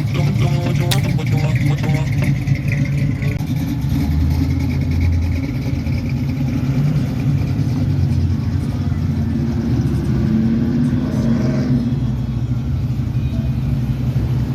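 A car engine running with a steady low rumble, briefly rising in pitch a little after the middle as it is revved.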